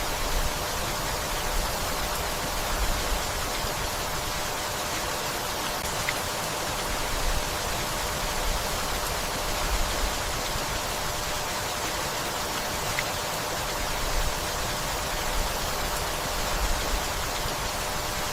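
Steady rainfall, an even hiss of rain with a few faint single drips now and then.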